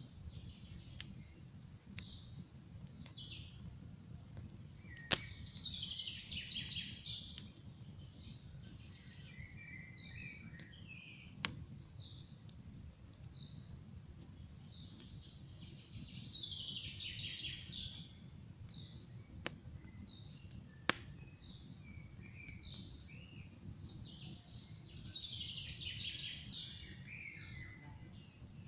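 Songbirds singing over a crackling campfire. One bird repeats short chirps about once a second, and another sings a descending trill three times, roughly every ten seconds. Under them, the fire gives a few sharp pops and cracks.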